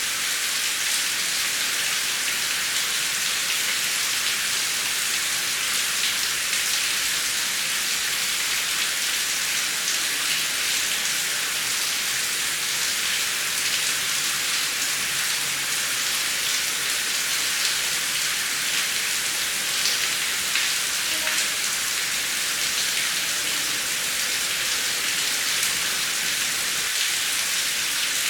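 Heavy rain falling steadily: an even, dense hiss with scattered ticks of individual drops.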